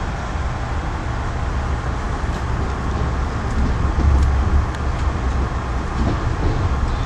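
Moving passenger train: a steady low rumble and running noise, swelling briefly about four seconds in, with a few faint clicks.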